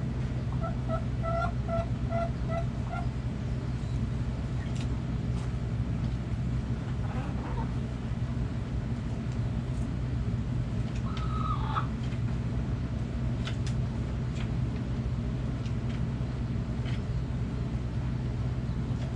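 Backyard chickens calling over a steady low hum: a quick run of six short, evenly spaced clucks near the start, then one brief drawn-out call about eleven seconds in, with faint scattered clicks between.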